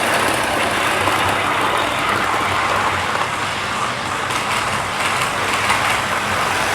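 Model trains running on the layout track: a steady, even noise of their motors and wheels.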